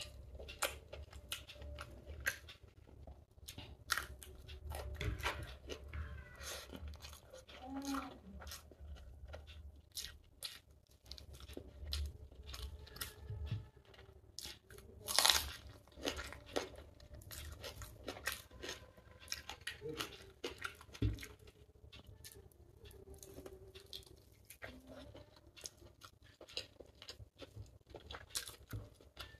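Chewing and mouth sounds of a person eating chicken biryani by hand: many short clicks and crunches, with one sharper, louder click about halfway through.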